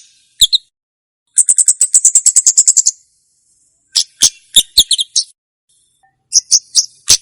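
Komade bird calling: high, sharp chirps, then a fast trill of about eight notes a second lasting about a second and a half, then more separate sharp chirps. It is a lure and tutoring call of the kind bird keepers play to trap wild komade or to teach young captive birds their song.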